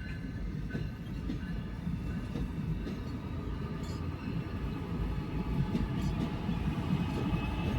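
Amtrak passenger train rolling past as it departs, a steady low rumble of wheels on rail that grows somewhat louder near the end, with faint thin high tones above it.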